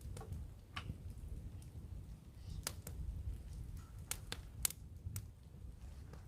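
Wood campfire crackling, with sharp irregular pops scattered over a steady low rumble.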